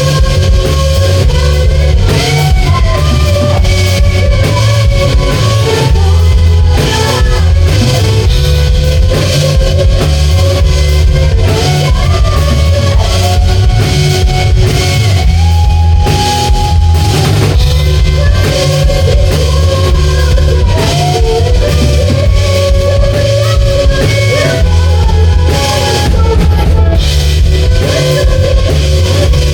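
A live rock band playing loudly: guitar, bass and drum kit together, with a heavy low end.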